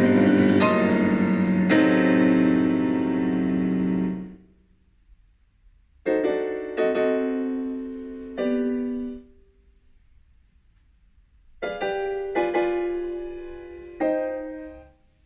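Background solo piano music: slow phrases of chords that ring out and fade, with short pauses between phrases.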